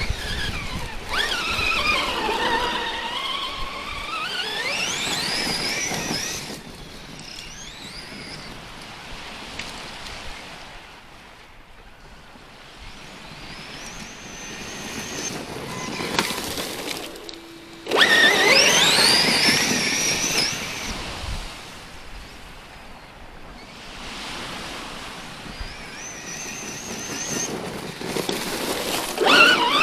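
Electric motor and drivetrain of a 1/6-scale Redcat Shredder RC truck, run on 6S through a 150 A speed control, whining as it accelerates and slows over sand and rock. The pitch dips and climbs over the first few seconds, eases off in the middle, then rises steeply on hard throttle later and again near the end.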